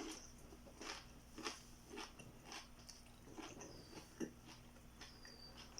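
Close-up chewing of food: soft, wet mouth clicks about every half second to second.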